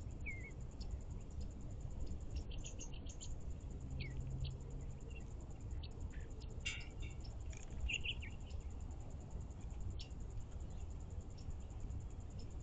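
Small songbirds giving scattered short chirps and call notes, a dozen or so brief notes spread irregularly through the stretch, over a steady low rumble.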